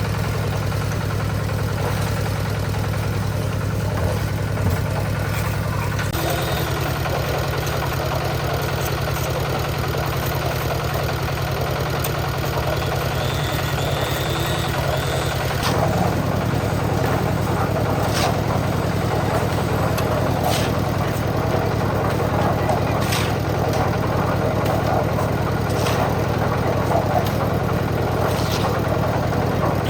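Concrete mixer's engine running steadily, its tone shifting about 6 seconds in and again just past halfway, with scattered short knocks through the second half.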